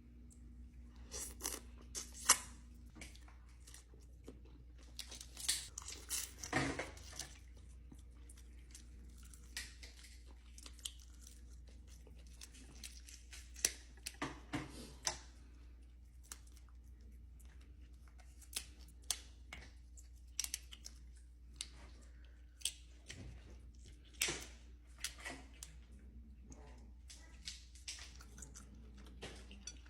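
A person eating: bites, crunching and chewing of food, in scattered short bursts with pauses between.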